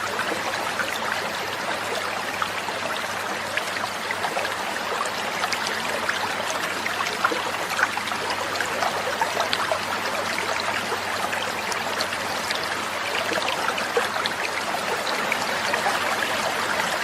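Water trickling and babbling steadily like a small stream, with no birdsong heard.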